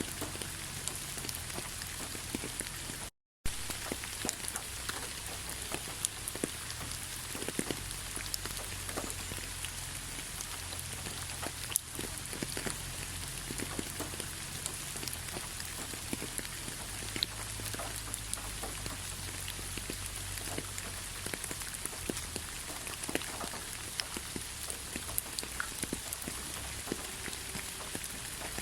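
Light rain falling: a steady even hiss dotted with many small, irregular drop ticks. The sound cuts out to silence for a fraction of a second about three seconds in.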